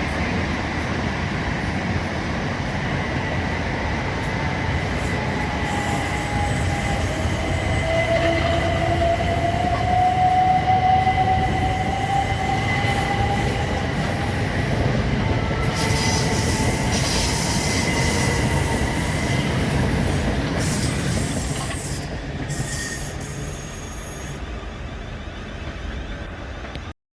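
A train running through the station, with steady rail rumble, a high squeal from the wheels and a whining tone that rises slowly in the middle. The noise dies away near the end and then cuts off suddenly.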